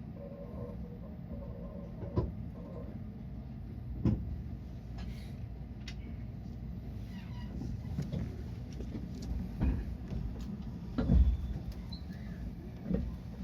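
Steady low hum inside a stopped electric commuter train car, with a few scattered knocks and thumps, the loudest about eleven seconds in.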